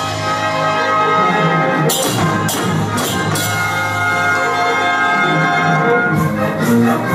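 Brass band march music with sustained horn chords and sharp percussion strikes about two and three seconds in.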